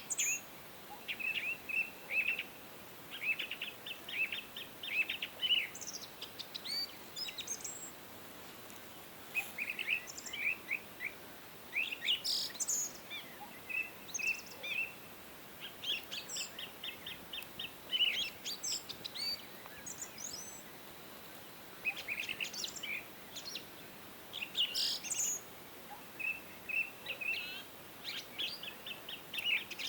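Several songbirds singing and chirping, with rapid clusters of high chirps and short trills coming in bursts and a few brief pauses between them.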